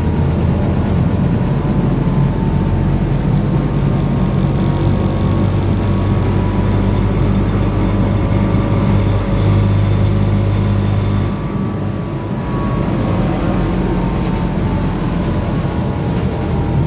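BKM-32102 trolleybus heard from inside while it drives: a steady low drone from the electric drive over road rumble, with faint whining tones above it. About eleven seconds in, the low drone drops away and the sound eases off a little.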